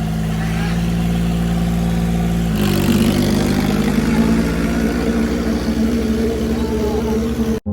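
Tractor diesel engine running hard and steady. Its note drops and shifts about two and a half seconds in, and it cuts off suddenly near the end.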